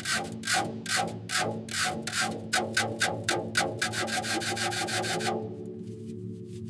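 Rhythmic rasping strokes of hand filing or sanding, about four a second, stopping about five seconds in, over a steady low hum.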